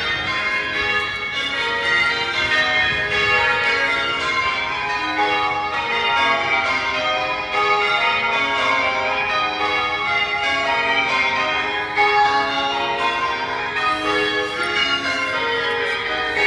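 A peal of church bells being rung in changes: many bells struck one after another in a continuous, overlapping run of notes.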